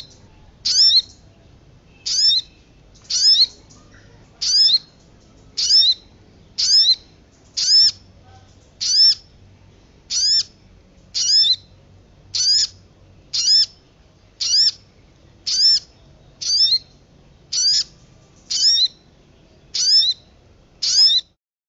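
A bird calling over and over, about once a second: short, high, sweeping notes, some given in quick pairs. The calls stop abruptly near the end.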